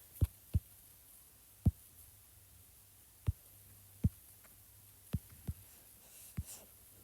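About eight soft knocks at irregular intervals over a faint, steady low hum.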